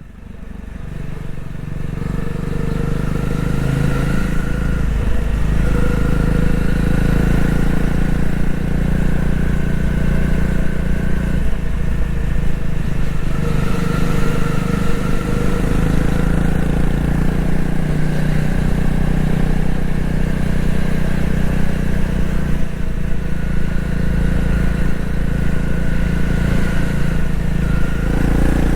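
Honda CRF250L's single-cylinder four-stroke engine running under way at fairly steady revs, its pitch dipping briefly a few times as the throttle eases. The sound fades in over the first couple of seconds.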